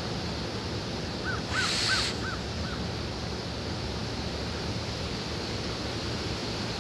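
A bird calling five times in quick succession about a second in, each call a short arched note, the series fading away. Under it runs steady wind rumble, with a brief gust of hiss during the calls.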